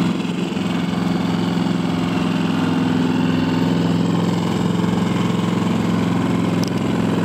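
Small boat's outboard motor running at a steady, unchanging pitch.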